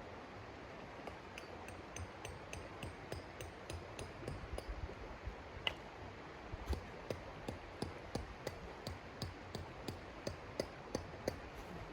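A quick, even series of light taps or knocks, about three a second, each with a slight ring, starting about a second in and stopping near the end.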